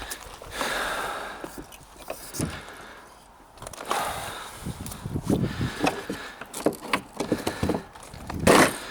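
Irregular knocks, scuffs and footsteps, with a louder knock near the end, as a plastic kayak and its gear are handled on the riverbank.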